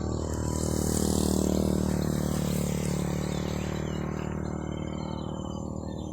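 A motor vehicle, likely a motorcycle, passes by: its engine hum and hiss swell to a peak a second or two in, then slowly fade away.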